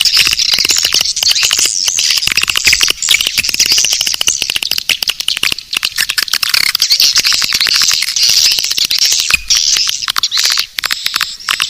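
Recorded swiftlet calls: a dense, continuous chorus of rapid twittering chirps and clicks. It is a swiftlet lure call of the kind played in swiftlet nesting houses to draw the birds in.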